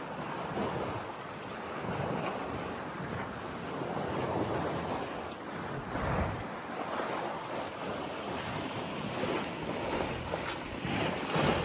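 Wind blowing across the microphone aboard a sailboat at sea, with the rushing wash of the sea, swelling and easing in gusts.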